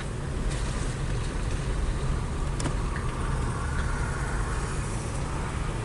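Car engine running steadily, heard from inside the cabin as an even low rumble.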